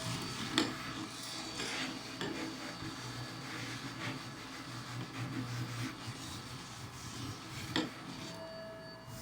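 Vacuum cleaner running while its nozzle rubs and scrapes along carpet edges and stairs, with two sharp knocks, about half a second in and near the end.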